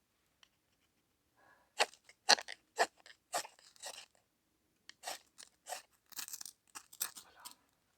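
Sharp crunching, scraping strokes from work on a campfire being lit with dry kindling and tinder: about a dozen short, irregular strokes, starting about two seconds in.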